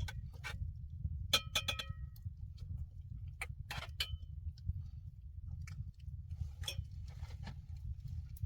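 Light metallic clinks and taps of metal cookware or utensils, a cluster of ringing clinks about a second and a half in and a few more around three to four seconds, over a steady low rumble.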